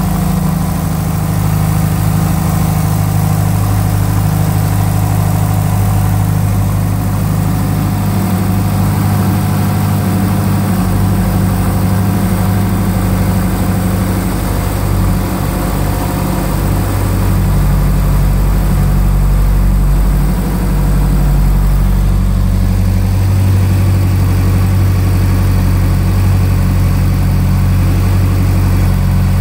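2005 Subaru Impreza WRX STI's freshly rebuilt turbocharged 2.5-litre flat-four, with Manley forged pistons and rods, idling steadily through equal-length headers and a Borla cat-back exhaust on its first start-up. The idle note shifts slightly about halfway through.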